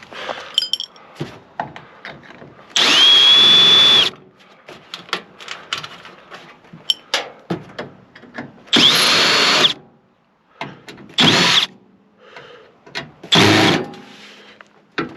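Power drill-driver with a Phillips bit backing screws out of a microwave oven's transformer mounting. It makes four short runs, the first the longest at over a second, each motor whine rising to speed and falling off, with clicks and knocks of metal between.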